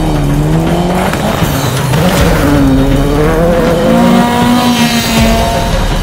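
Rally car engine revving hard, its pitch rising and falling through the gears, with tyre noise.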